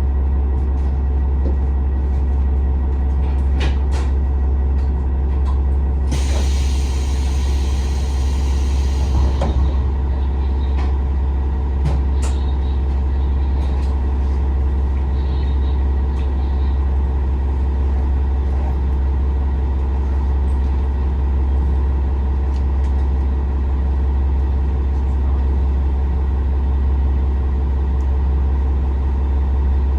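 Heard from inside a JR West KiHa 47 series diesel railcar under way: the diesel engine and running gear make a steady low drone, with occasional clicks. About six seconds in, a hiss starts and lasts about three seconds.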